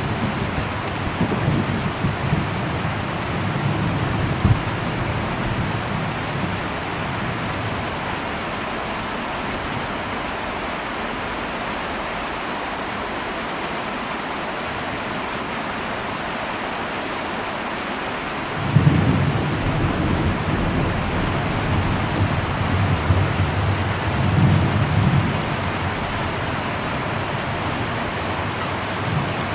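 Heavy rain falling steadily on an old metal roof, with low rolling thunder. One rumble fades over the first few seconds, and another starts suddenly about two-thirds of the way in and runs to the end.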